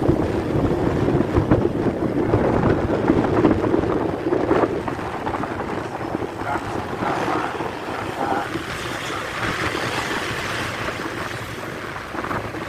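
Passenger train passing at speed: a loud, steady rumble of wheels on rails, with wind buffeting the microphone, easing off slightly after about four seconds.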